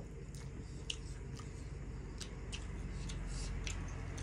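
Mouth sounds of eating chicken biryani by hand: chewing and scattered small sharp clicks at irregular intervals, over a steady low hum.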